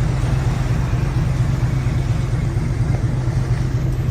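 Boat engine running steadily: a constant low drone over an even hiss.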